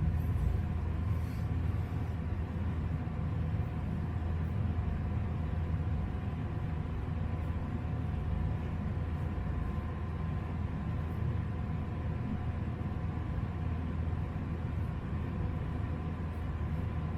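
A steady low hum with a faint whine, under faint, short, irregular scrapes of a slant safety razor cutting lathered stubble.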